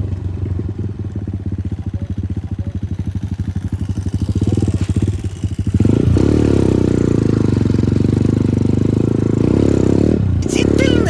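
Single-cylinder engine of a Progasi Smart Max 150 motorcycle idling with an even putter. About six seconds in it is revved up and held at higher revs, with the revs wavering, then dips briefly near the end.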